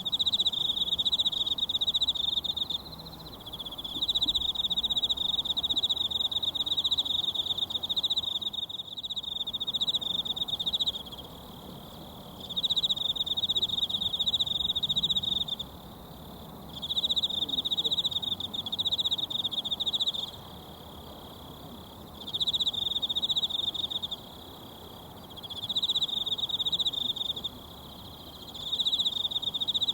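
High, pulsing insect trill in repeated phrases a few seconds long with short pauses between, about seven phrases in all, over the faint steady rush of a mountain stream.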